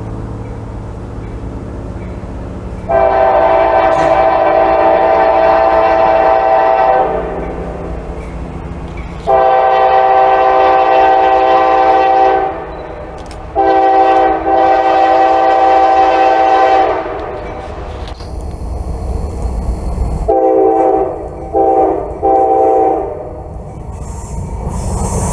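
Diesel freight locomotive's multi-chime air horn sounding three long blasts, then two shorter ones near the end, over the low rumble of the train.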